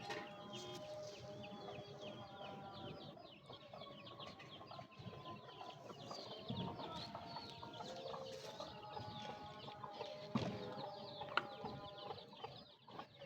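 Many birds calling at once, clucking fowl under a dense chatter of high chirps. Two sharp knocks sound near the end.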